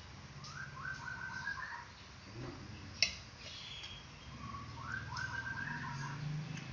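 A bird calling twice, each call a quick run of short notes stepping upward in pitch. A single sharp clink about three seconds in.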